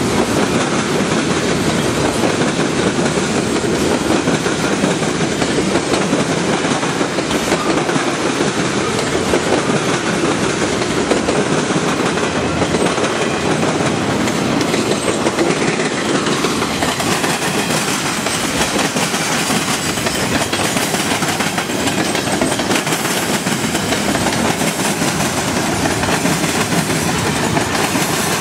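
Train cars rolling past on the rails: a steady, unbroken noise of wheels on track.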